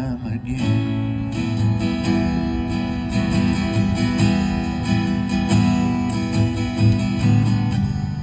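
Acoustic guitar strummed steadily through a song's closing chords, with no singing.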